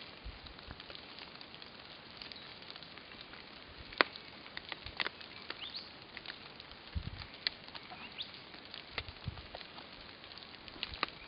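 Light rain outdoors: a faint steady hiss with scattered small taps and clicks at irregular intervals, and a few soft low thumps in the second half.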